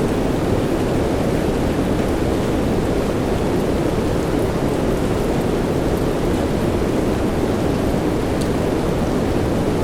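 Steady soft rain, an even, unbroken hiss weighted toward the low end, with a few faint drop ticks.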